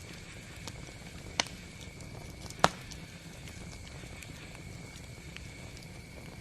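Wood campfire burning with a steady low rumble and scattered sharp pops and crackles: two loud pops, the louder one about two and a half seconds in.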